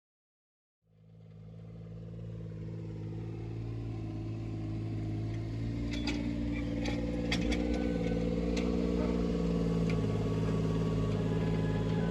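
A motor vehicle engine running steadily, fading in after about a second of silence and growing louder. A few sharp clicks come about halfway through.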